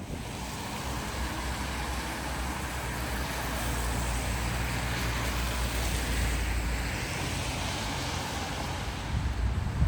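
Outdoor city noise: a steady rushing over a low rumble, swelling over the first few seconds and easing near the end.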